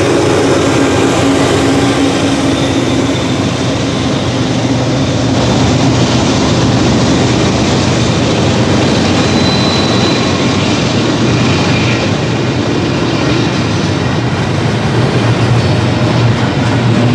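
Double-stack intermodal well cars of a freight train rolling past, with a steady rumble of steel wheels on rail.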